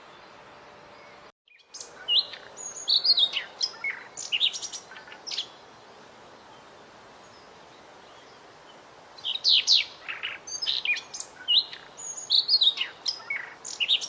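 A small songbird singing in two bouts of quick, varied chirps and whistles, with a pause of a few seconds between them, over a steady faint hiss.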